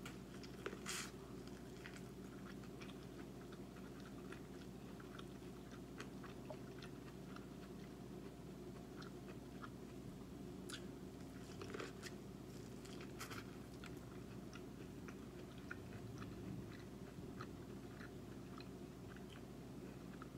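Biting into and chewing corn on the cob close to the microphone: faint, crisp little crunches and clicks, a few sharper ones about a second in and again around eleven to thirteen seconds in, over a steady low hum.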